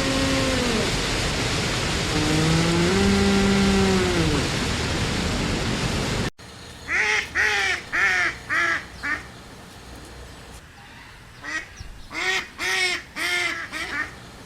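Two low, drawn-out calls from an antlered deer over a steady hiss. The sound then cuts off sharply and a goose honks in two quick bouts of about five or six calls each.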